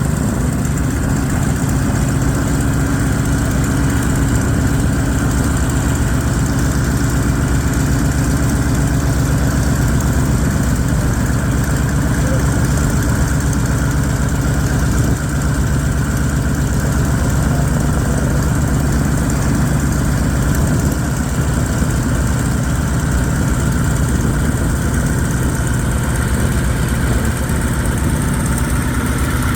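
F4U Corsair's Pratt & Whitney R-2800 18-cylinder radial engine running steadily on the ground, loud and even, with no change in speed.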